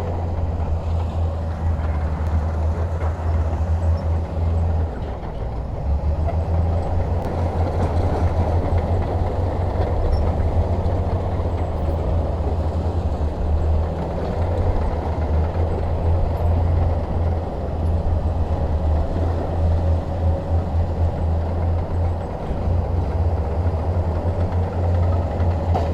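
Bulldozer's diesel engine running steadily, a deep low drone that holds throughout with small dips in level.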